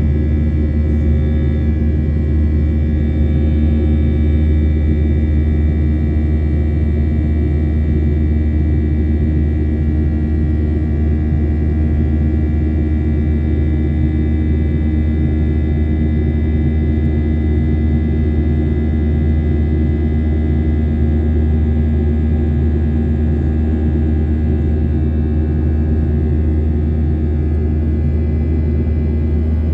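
Steady cabin noise inside a Boeing 737-800 in the climb: a deep rumble of the CFM56-7B engines and airflow with several steady whining tones over it, unchanging throughout.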